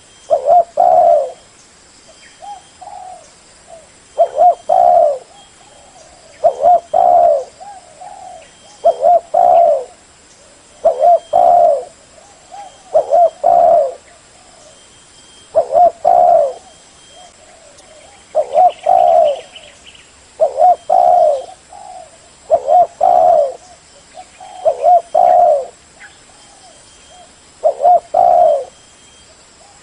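Spotted dove (cu gáy) cooing: short phrases of a few notes repeated about every two seconds, the call of a decoy bird used to draw in wild doves.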